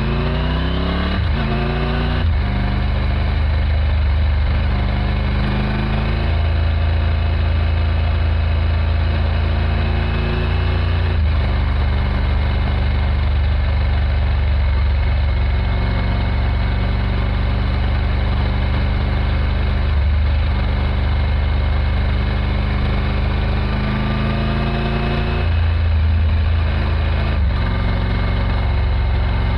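2024 Triumph Tiger 900 GT Pro's three-cylinder engine on the move, revving up through two quick upshifts near the start. It then runs at a steady cruise, and pulls up through another gear change near the end.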